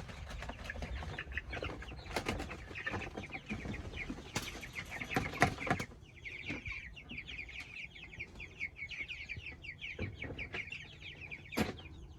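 A group of young Big Red Broiler meat chicks peeping constantly in rapid, falling chirps. Through the first half there are knocks and clatter, the loudest about five seconds in; after that the peeping carries on alone.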